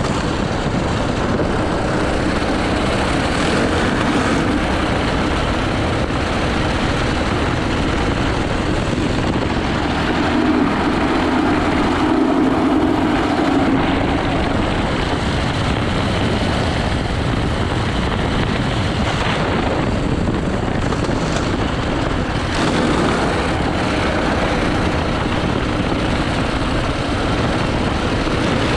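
80cc racing kart engine running hard through a lap, its note swelling and easing with the corners, with wind rushing over the microphone.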